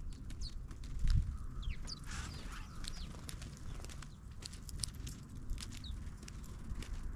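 Songbirds calling with short, high, falling chirps, one warbled note about two seconds in. Scattered clicks and low thumps sound underneath.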